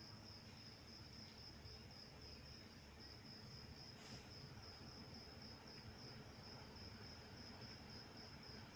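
Faint crickets chirping in a steady, evenly pulsing high trill over a low background rumble.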